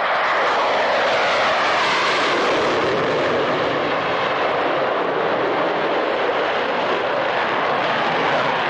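Display aircraft flying a low, fast pass, its engine noise loud and steady.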